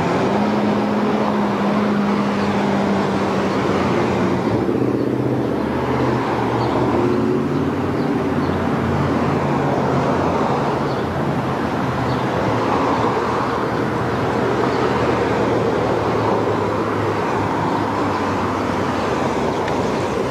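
A vehicle's engine running steadily over a constant rumble, its drone holding a level pitch throughout.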